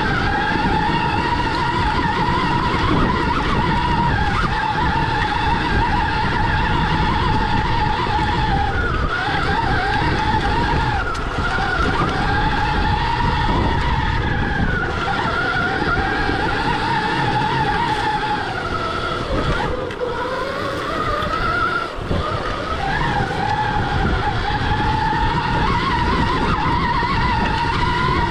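Stark Varg EX electric dirt bike's motor whining while riding off-road. The pitch rises and falls with the throttle and dips several times, over a steady low rumble.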